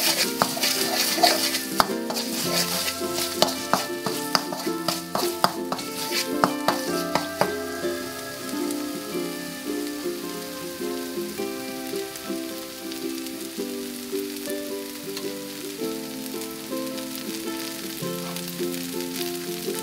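Red curry paste sizzling in oil in a metal wok, with a spatula scraping and clicking against the wok during the first several seconds; the sizzle settles down after that. Background music with a melody plays throughout.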